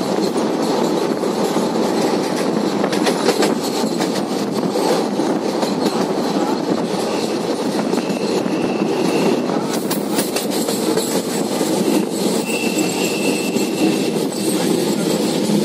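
Train running at speed, heard from inside the coach: a steady rumble of wheels on the track with rapid clicks over the rail joints. A brief thin high whine comes twice, about halfway through and again near the end.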